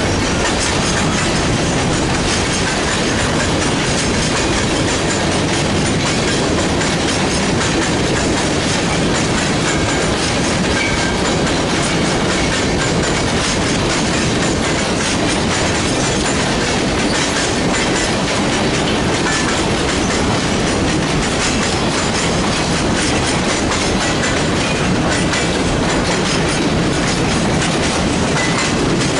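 Freight train rolling steadily past, with the continuous running noise of its steel wheels on the rails.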